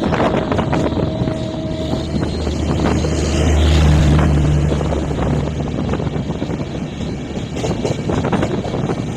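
Express train running past on the adjacent track, a heavy rumble with wind buffeting the microphone; a low drone swells about three seconds in, is loudest around four seconds, and fades soon after.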